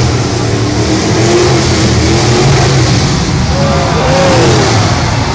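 Jeep Cherokee V8 and Jeep CJ7 engines revving hard as the two trucks race over an off-road course, the pitch rising and falling with the throttle.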